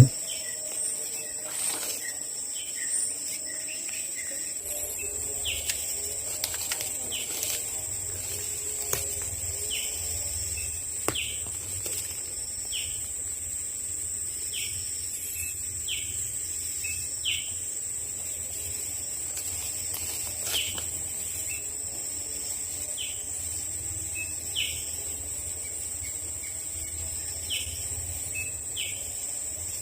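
Tropical forest ambience: a steady high insect drone under a bird repeating a short, high, falling note about once every second or so, with fainter lower warbling calls and a few soft clicks.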